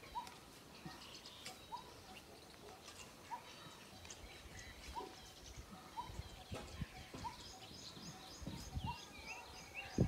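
Birds calling: a short rising note repeated about once a second, with scattered higher chirps and a quick twittering near the end. Soft low thumps come in the second half.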